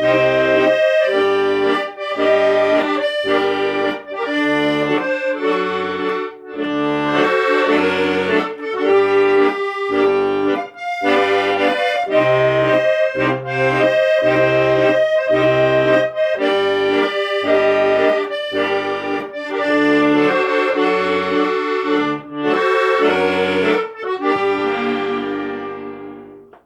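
Accordion music: a melody over a steady rhythm of bass notes, fading out at the end.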